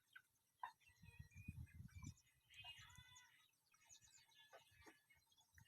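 Faint birds chirping and calling in short, scattered notes, with a low rumble from about one to two seconds in.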